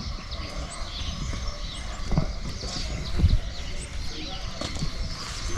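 Birds chirping repeatedly in the background, with a couple of dull thumps about two and three seconds in.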